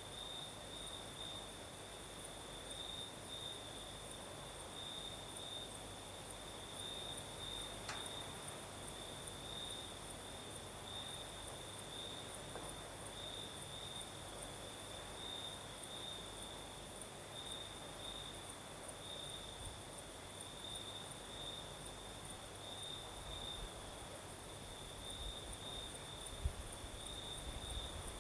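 Crickets chirping steadily in an even, rapidly pulsing high trill, with a fainter, higher insect hiss above it. Low gusts of night breeze rumble on the microphone in the last few seconds.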